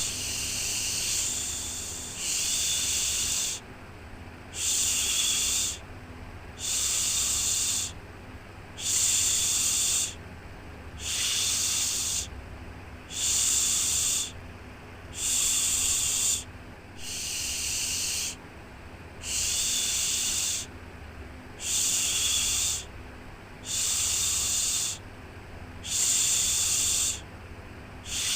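A 'shhh' shushing sound for soothing a baby, repeated in even strokes of about a second each, roughly every two seconds, over a low steady hum.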